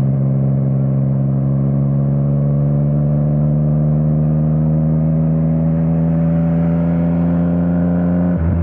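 Yamaha MT-09's inline three-cylinder engine through an Akrapovič exhaust, running under steady throttle with its pitch slowly rising as the bike gathers speed. Near the end the note changes abruptly.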